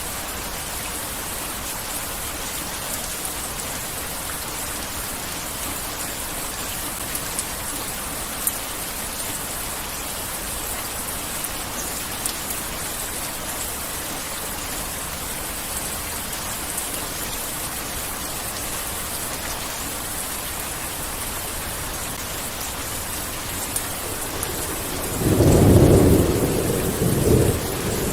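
Heavy rain falling steadily, with scattered drop ticks. About 25 seconds in, a low thunder rumble swells and rolls for about three seconds.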